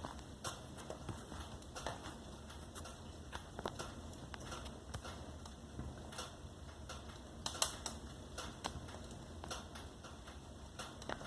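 Wood fire in a fireplace crackling: irregular sharp pops and snaps over a low steady hiss, with a louder cluster of pops about seven and a half seconds in.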